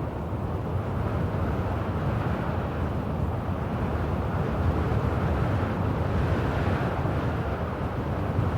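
Steady wind blowing, a low, even rushing with no gusts standing out.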